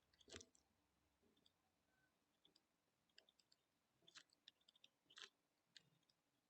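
Near silence with a few faint, scattered clicks, the clearest about a third of a second in and two more after about four and five seconds.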